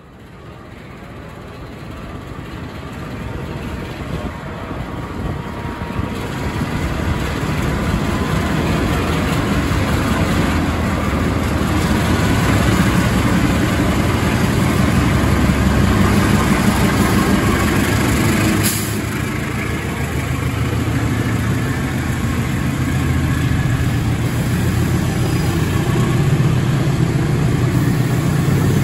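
Cement freight train hauled by a pair of KAI CC206 diesel-electric locomotives passing slowly. The locomotives' engines grow steadily louder as they come by, then the loaded wagons rumble and clatter over the rails.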